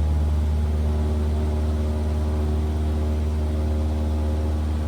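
Cessna 172R's four-cylinder Lycoming engine and propeller droning steadily at constant power, heard from the cockpit.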